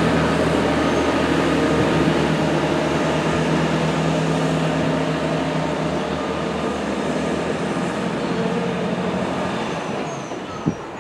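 Passenger train running through the station: a steady rumble with a low, multi-pitched hum that slowly fades away. A single sharp click near the end.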